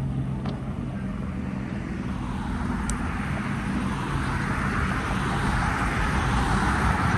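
Car engines running at low revs, then engine and tyre noise from a car growing steadily louder as it creeps up toward the exit.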